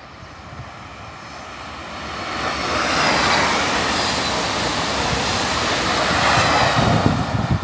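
A train passing close by: a rushing noise that swells over the first three seconds and stays loud, with a deeper rumble near the end.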